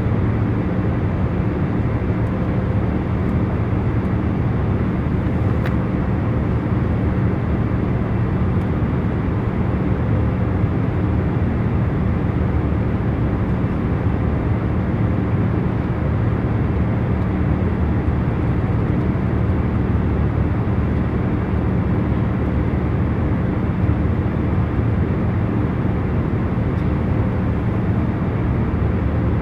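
Airliner cabin noise in cruising flight: a steady, even rushing hum, heaviest in the low range, with a few faint steady tones under it.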